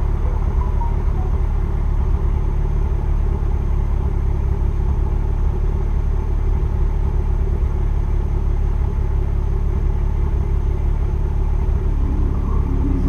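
2002 Nissan Maxima SE's 3.5-litre VQ35DE V6 idling steadily as it warms up after a cold start, a deep, even exhaust rumble through equal-length headers and a straight pipe with no resonator.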